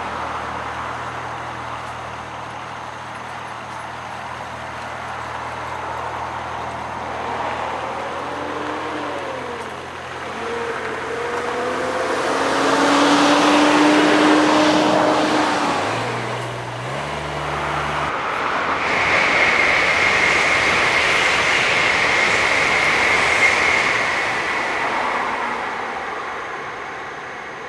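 Hino Rainbow route bus's diesel engine idling, then pulling away with a rising engine note through its gears. A Shinkansen N700A train then passes at speed, a loud rushing sound with a steady high whine.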